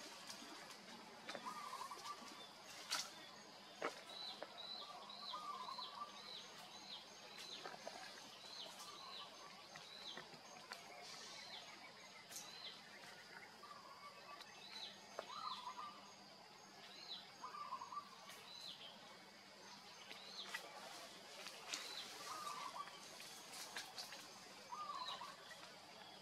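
Wild birds calling repeatedly: a short high note about once a second and a lower warbling call every couple of seconds, over a steady high hum, with a few sharp clicks.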